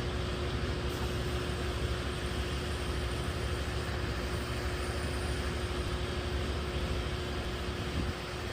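HVAC equipment running: a steady blower and fan rush with a constant hum tone, the level dipping slightly near the end.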